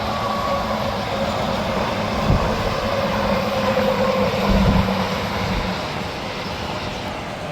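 Heavy highway traffic: semi trucks passing at speed, a steady rush of tyre and engine noise with a low drone and a couple of low thumps.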